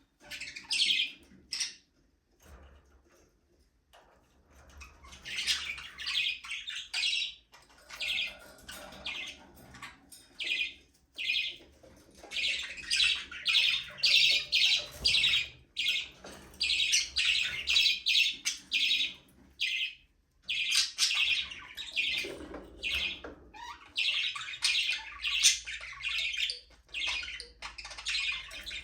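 A flock of budgerigars chirping and chattering in many short, quick calls. There is a lull of a few seconds about two seconds in, then the chatter becomes dense.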